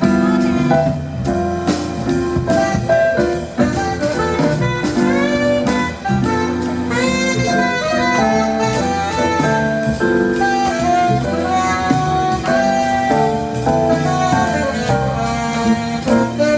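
Live jazz combo playing, a saxophone carrying a moving melodic line over bass and drums.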